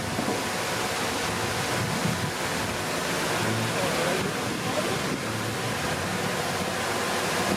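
Steady rushing noise of wind on the microphone over the running diesel engine of a Komatsu D31P bulldozer at work.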